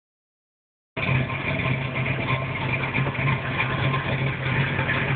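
Chevrolet Camaro Z28's V8 engine idling steadily, the sound cutting in about a second in.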